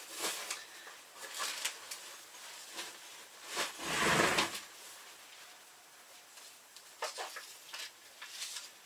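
Handling noises as packaged household goods are moved about: scattered light knocks and rustles, with one louder, muffled swoosh about four seconds in.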